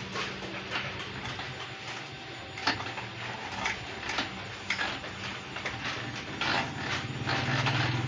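Irregular metallic clicks and knocks of sheet metal being worked, over a low steady hum that weakens in the middle and grows stronger near the end.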